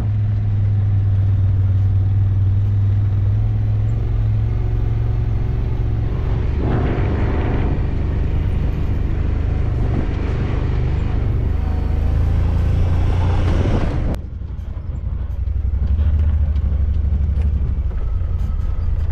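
Motor vehicle on the move: a steady low engine and road rumble. The hiss drops out and the sound dips abruptly about 14 seconds in, then the low rumble picks up again.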